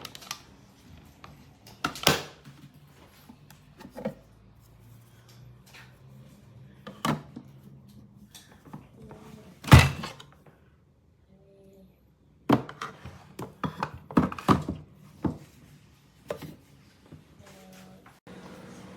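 A series of separate knocks and thunks from objects being handled and set down, the loudest about ten seconds in, followed by a brief quiet spell and then a quick cluster of knocks.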